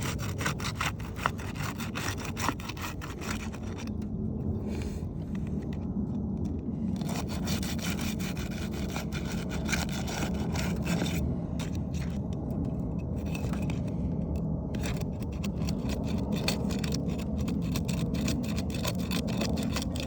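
Steel roofing flat bar scraping and prying under asphalt shingles, working back and forth to break the sealant strip bonds: a rapid run of scraping strokes with brief pauses.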